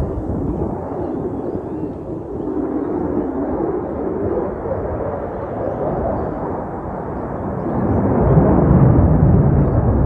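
Distant roar of an F-35A Lightning II's single Pratt & Whitney F135 afterburning turbofan during a display flight, a continuous rushing rumble that swells louder and deeper near the end.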